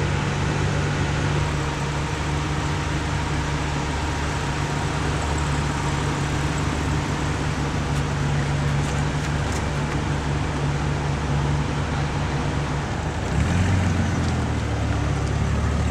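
An engine running steadily with a low hum. Its note shifts and grows a little louder about 13 seconds in.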